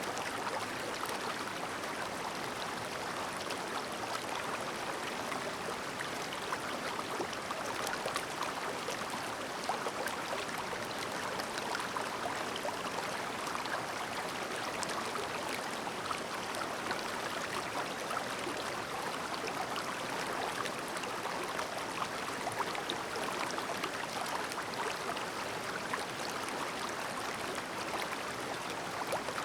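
Clear, shallow mountain stream babbling over rocks: a steady rush of running water, flecked with many small splashes and gurgles.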